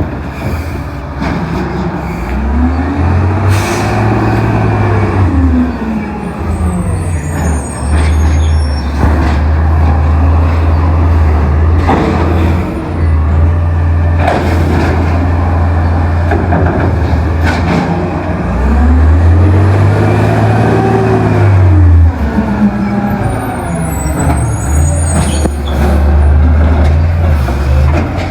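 Amrep automated side-loader garbage truck at work: its diesel engine drones steadily, and twice speeds up and slows back down over a few seconds, as it does when driving the hydraulic lift arm. A few short, sharp hisses or clanks come in between.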